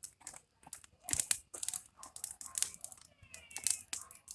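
Campfire of dry araucaria twigs crackling, with irregular sharp snaps and pops as the kindling catches.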